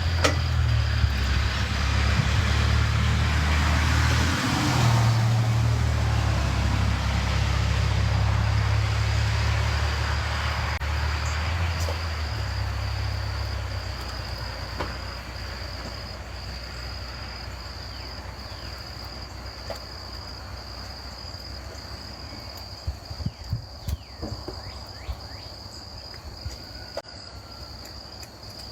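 A motor vehicle's low engine rumble, loudest in the first few seconds, dies away over about fourteen seconds. Under it runs a steady high insect trill, typical of crickets. A few light clicks come near the end.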